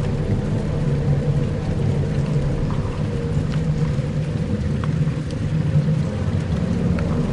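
Dark ambient music: steady low droning tones under a rumbling haze, with a few faint scattered ticks like drips.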